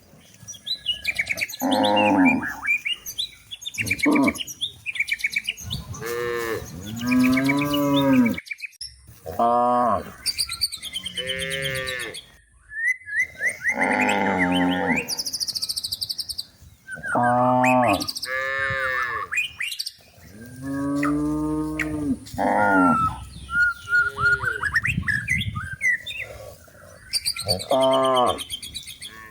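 Cows mooing again and again, one long drawn-out call after another, each bending in pitch, with small birds chirping in the gaps.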